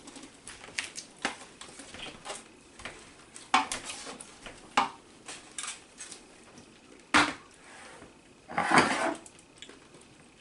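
Scattered light clicks and knocks of small hard objects being handled, with a sharper knock about two-thirds of the way in and a short rustling clatter shortly after.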